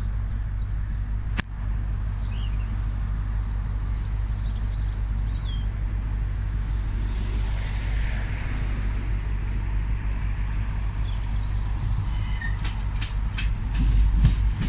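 Steady low rumble of a 10-car Class 800 train drawing in under diesel power, with rail clicks building and getting louder near the end. A few short bird chirps come a couple of seconds in.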